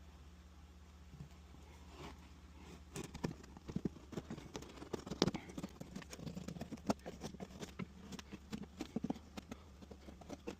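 Speaker holes being cut by hand in the boombox case's lined panel: irregular clicks, taps and scraping that start about three seconds in, over a faint low hum.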